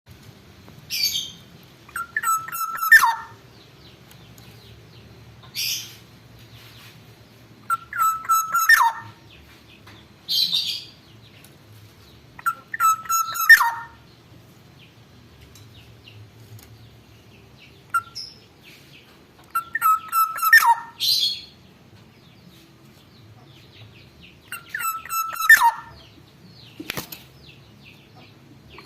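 Black-naped oriole (kepodang) singing. A short whistled phrase, held on one note and then dropping at the end, comes five times about every five seconds, with brief higher, harsher notes in between.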